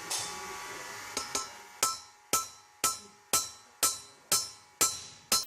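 Hammer tapping a mandrel to drive new valve seats into a heated aluminium cylinder head. The blows are sharp and metallic, about two a second with a short ring after each, following a steady hiss in the first second.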